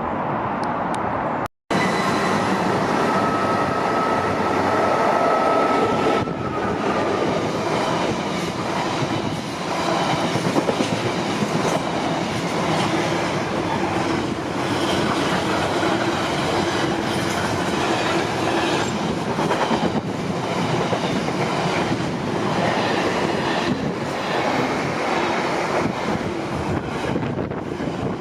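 Freight train wagons rolling past in a long, continuous rumble, with a rhythmic wheel clatter over the rail joints. The sound cuts out completely for a moment about one and a half seconds in.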